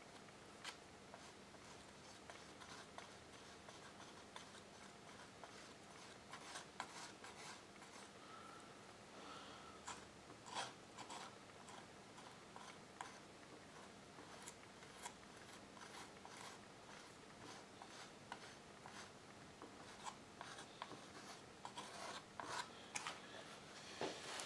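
Faint, scattered scratches and taps of a small metal spatula and fingertips working coloured filler into the paper of a watercolour, over quiet room tone; the strokes come more often and a little louder toward the end.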